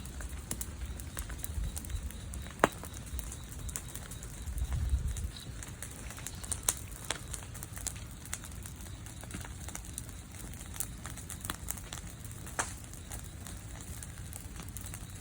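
Bonfire of tree branches burning hard, crackling with irregular sharp pops, one louder pop a little over two seconds in. A brief low rumble about halfway through.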